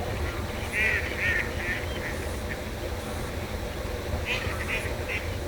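Ducks quacking in two runs of about three quick calls each, one about a second in and one near the end, over a steady low rush of water running through a pond sluice.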